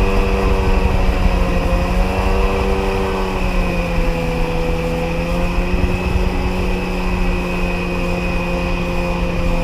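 Sea-Doo XP jet ski's two-stroke engine running steadily at cruise, its pitch dropping a little about three and a half seconds in and then holding.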